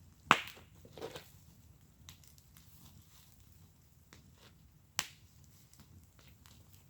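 Wood fire in a fire pit crackling, with a loud sharp pop just after the start, a smaller one about a second in, and another sharp pop about five seconds in.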